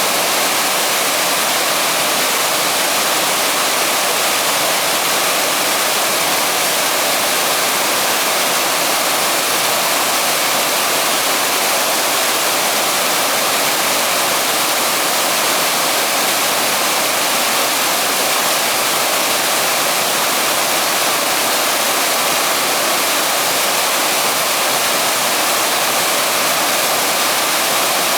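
Waterfall rushing steadily, a loud, even hiss of falling water.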